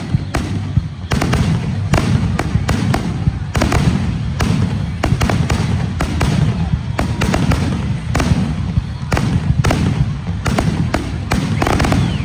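Aerial fireworks display: a dense, continuous run of booms and sharp cracks, several a second, over a steady low rumble.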